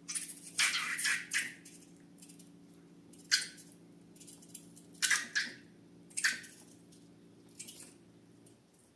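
Slime being squished and worked by hand: a series of about eight short, wet squishes at irregular intervals, over a faint steady hum.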